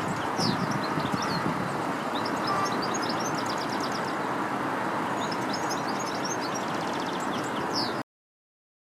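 Small songbirds chirping and twittering in quick trills over a steady rumble of distant traffic. The sound cuts off abruptly near the end.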